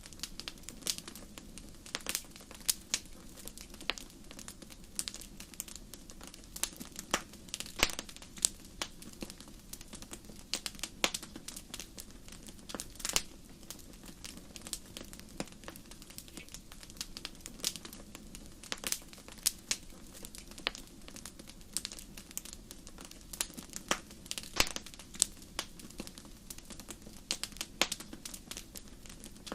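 Wood fire crackling in a fireplace: frequent sharp, irregular pops and snaps over a low, steady hiss of burning.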